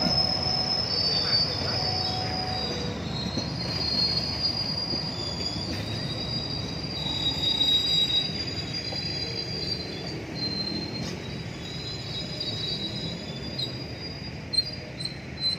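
Train rolling past with its steel wheels squealing on the rails: several high, drawn-out squealing tones over the rumble of the cars, slowly fading. Two sharp knocks near the end.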